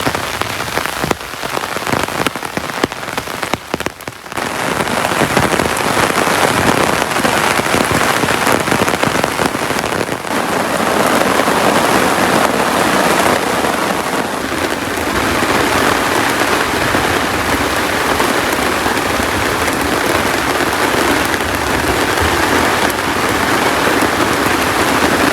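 Heavy tropical rain pouring down, uneven with brief lulls for the first few seconds, then a steady, loud downpour.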